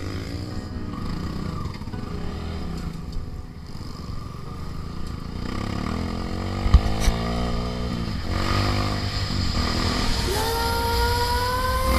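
Trail motorcycle engine running over rough ground, its pitch rising and falling with the throttle, with a couple of sharp knocks about seven seconds in.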